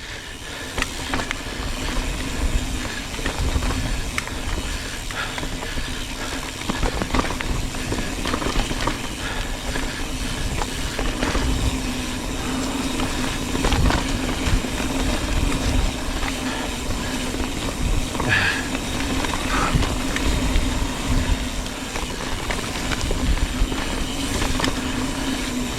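Full-suspension mountain bike ridden down a rough dirt trail, with tyres on dirt, scattered rattles and knocks over roots and rocks, and wind rumbling on the helmet camera's microphone. A steady hum runs underneath.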